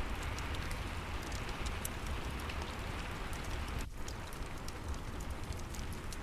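Steady rain with a low rumble, sprinkled with small sharp crackles from a fireplace. The sound dips for a moment about four seconds in.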